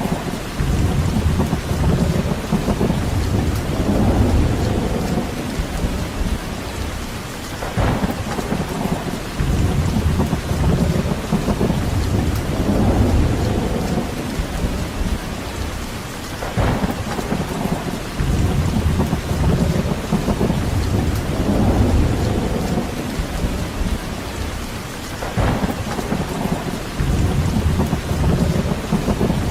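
Steady rain falling, with low rumbles that swell and fade every few seconds.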